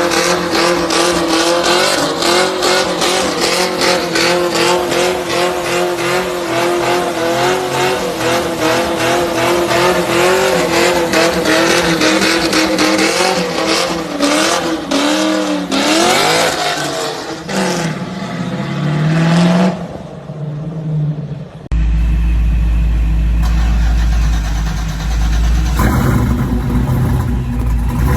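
Muscle-car V8 engine held at high revs for a long stretch, then the revs fall away and waver as it is let off. Partway through, it cuts suddenly to another engine running at low speed with a deep, steady rumble.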